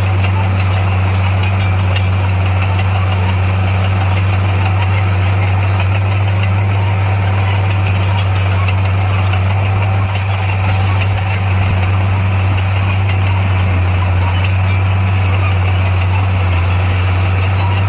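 Heavy diesel engine of construction machinery running steadily with a deep, even hum that holds one pitch throughout.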